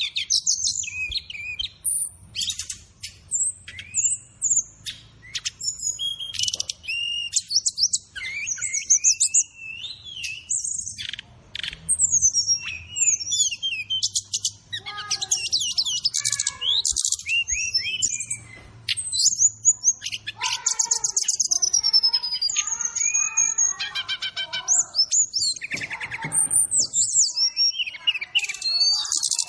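Brown-chested jungle flycatcher (sikatan rimba dada coklat) song recording: a fast, varied run of high whistles, sliding notes and rattling trills, with lower chattering phrases joining in the second half as mixed-in fill-in calls.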